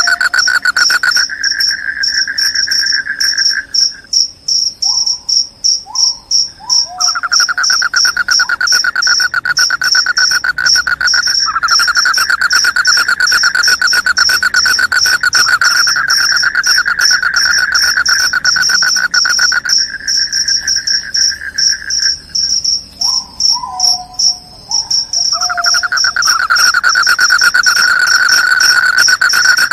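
Crickets chirping loudly in rapid pulsing trills: a high trill runs throughout, and a lower trill drops out twice for a few seconds. A few short falling whistles come about five seconds in and again about 23 seconds in.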